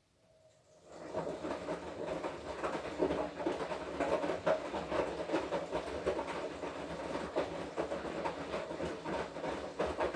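Washing machine in its wash cycle: the drum starts turning about a second in and keeps tumbling the wet laundry, a steady churning with many small knocks and rattles.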